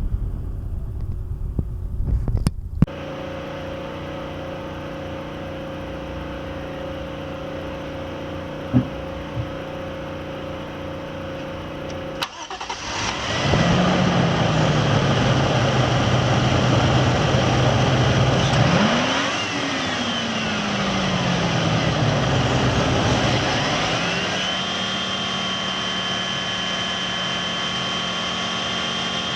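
Toyota 1G-GZE supercharged straight-six starting about twelve seconds in and running at a raised idle that settles. It is revved once, rising and falling over a few seconds, then idles steadily with a thin high whine over it.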